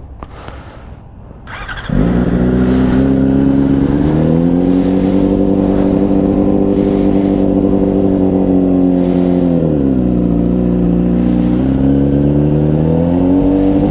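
Motorcycle engine revved up about two seconds in and held at steady high revs. The revs drop briefly near the ten-second mark, then climb back up.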